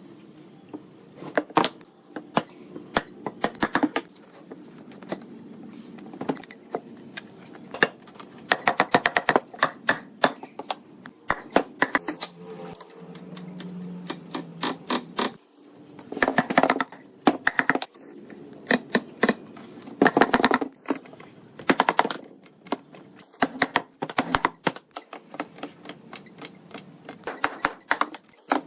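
Woodworking hand-tool work: bursts of rapid, sharp taps and clicks on wood, coming in quick runs with short pauses between.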